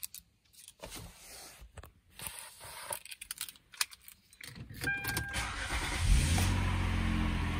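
Keys jingling and a few clicks, a short beep about five seconds in, then the Hyundai Sonata NF's engine starts about six seconds in and settles into a steady idle.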